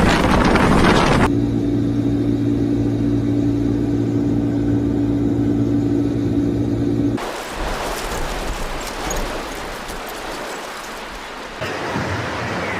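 Storm wind blowing hard as a steady rushing noise. About a second in it gives way to a steady low mechanical hum of a few held tones, which lasts about six seconds and then breaks off into wind noise again.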